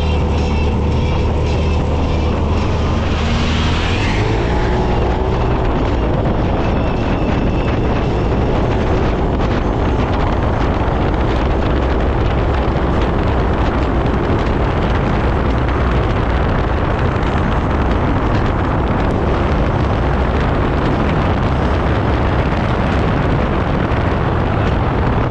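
Side-by-side UTV on the move: the engine runs under heavy wind rush on the microphone. A steady engine hum is clear for the first few seconds, then a dense rushing noise takes over.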